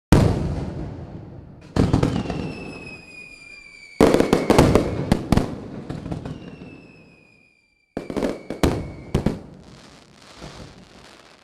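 Fireworks going off: two loud booming bursts, then a long whistle sliding slightly down in pitch, followed by a rapid cluster of sharp cracks and pops; another whistle and a second run of cracks follow, with the sound cutting off abruptly near the end.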